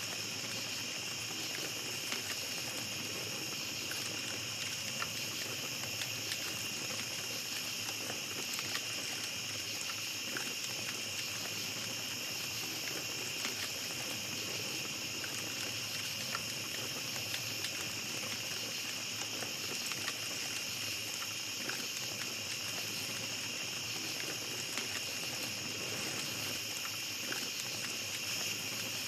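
Small campfire crackling, with scattered sharp pops and snaps, over a steady high-pitched insect chorus of the night forest.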